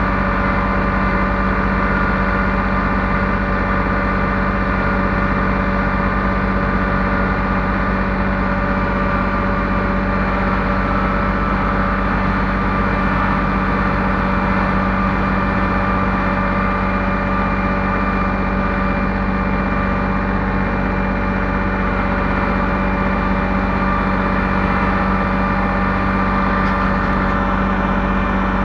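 Heavy equipment engine running steadily at an even speed, a continuous droning hum with no revving.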